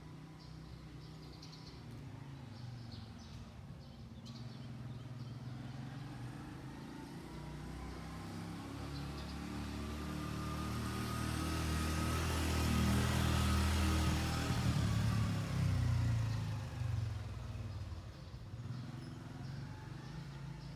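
A motor vehicle passing by: its engine and tyre noise builds slowly, peaks a little past the middle and fades away, with the engine's pitch dropping as it goes by.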